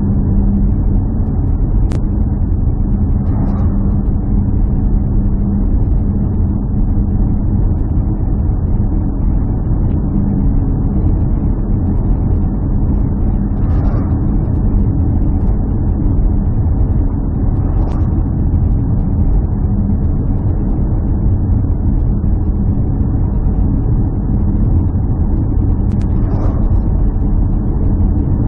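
A steady, loud low drone of a vehicle running at an even speed, with a few faint clicks over it.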